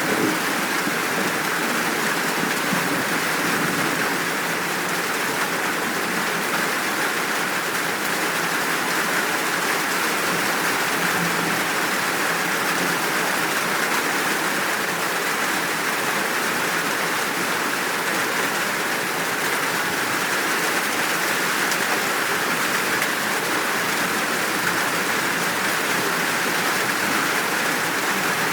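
Steady downpour of rain, an even hiss that keeps the same level without a break.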